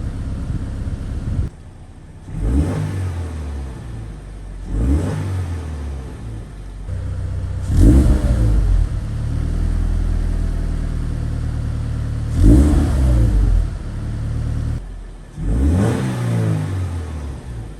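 Subaru BRZ flat-four engine and exhaust idling, then free-revved about five times, each rev climbing sharply and falling back to idle; after one rev near the middle the engine is held at a raised speed for a few seconds.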